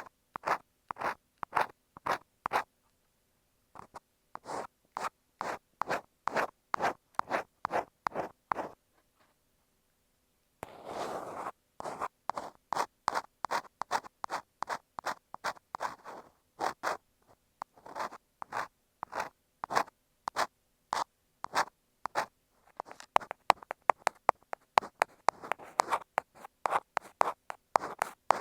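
Ear pick scraping on an earphone microphone in short, rhythmic strokes, about two to three a second, the close scratching of ear cleaning. There are two brief pauses, one longer rub about 11 seconds in, and quicker, denser strokes near the end.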